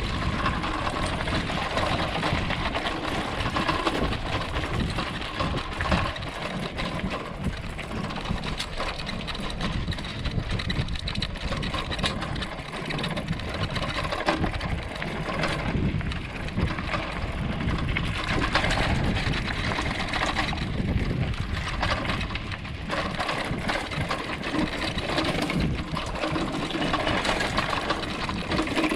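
Bicycle ridden over rough off-road ground: a steady, dense rattling and clattering of the bike and its parts over the uneven surface.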